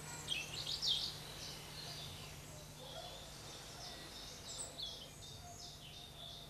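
Small birds chirping in trees: a quick run of short high calls about half a second to a second in, then scattered chirps and a second cluster a little before the end, over a faint steady low hum.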